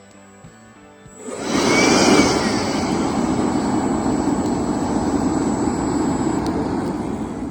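A small handheld blower switches on about a second in and runs steadily, its motor whining and air rushing into the campfire to get it burning.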